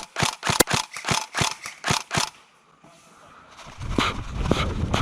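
Airsoft gun firing a rapid string of about a dozen sharp pops, roughly five a second, for a little over two seconds. Near the end a rough, low rustling noise sets in.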